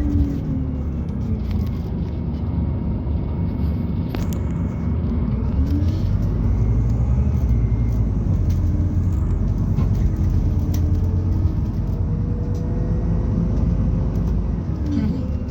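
Scania Citywide LFA city bus heard from inside while under way, its Scania OC09 natural-gas engine giving a steady low rumble. A drivetrain whine rises and falls several times as the bus speeds up and slows.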